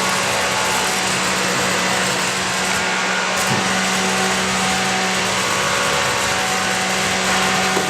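Insulation blowing machine running steadily as insulation is blown into a wall cavity: a loud, even rush of air over a constant low hum.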